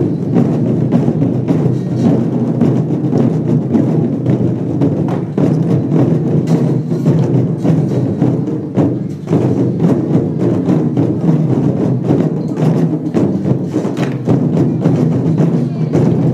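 Lion-dance troupe's percussion: a drum beaten in a fast, unbroken rhythm with cymbals clashing, loud and steady throughout.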